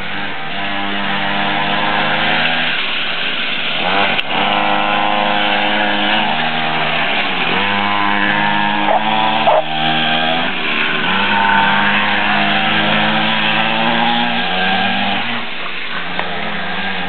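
49cc two-stroke mini dirt bike engines racing, buzzing at high revs with the pitch climbing and dropping again and again as the riders accelerate and let off. A sharp click about four seconds in.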